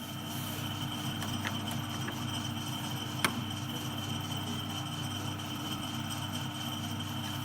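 Metalwork lathe running with a steady hum, and a single sharp metallic click about three seconds in.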